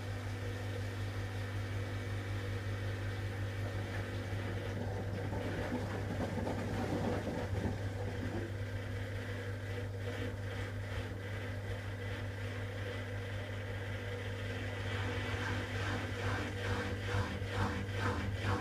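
Hoover WDYN 11746 PG8 washer-dryer running in its rinse-and-spin phase: a steady low motor hum. Toward the end a quick regular pulsing of about three beats a second joins in.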